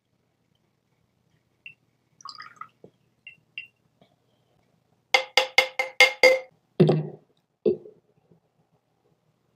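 A musical instrument struck or plucked six times in quick succession at the same pitch, followed by two duller, lower knocks. Faint scattered clicks and taps come before.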